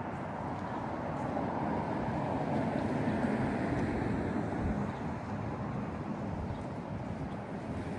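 Street traffic noise, swelling as a vehicle passes about three seconds in, then easing back.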